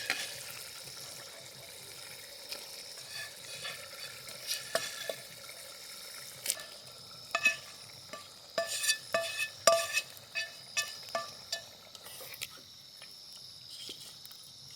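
Chicken being stirred into a pan of masala gravy, the spoon clinking repeatedly against the metal pan, most often in the middle stretch, over a steady sizzle.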